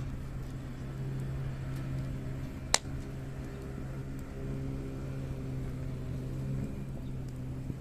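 Steady low engine hum, like a vehicle running nearby, easing off near the end. About three seconds in, a single sharp pop, typical of burning hardwood in a campfire.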